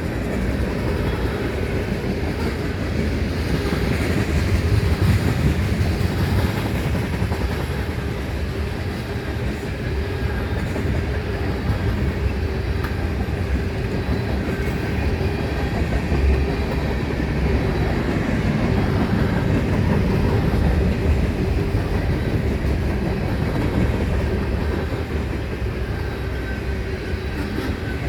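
Freight train cars rolling past at steady speed: a continuous rumble of wheels on rail with a clickety-clack over the rail joints.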